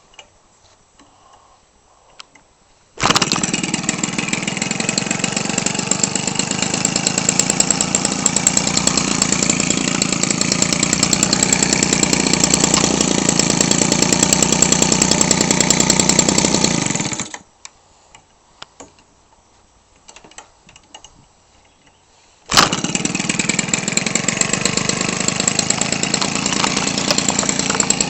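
Weed Eater Featherlite 21cc two-stroke engine turning a propeller: it catches suddenly about three seconds in, runs steadily for about fourteen seconds and then stops. After a few quiet seconds it catches again and runs on.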